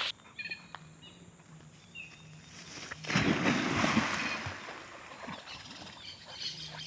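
A dog splashing into reservoir water to fetch, a spell of splashing about three seconds in that fades away over a second or so.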